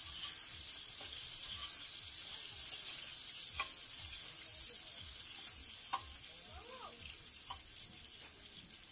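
Chicken pieces sizzling in hot oil on a large flat steel griddle (tawa), stirred and turned with a metal spatula that clicks and scrapes against the griddle a few times.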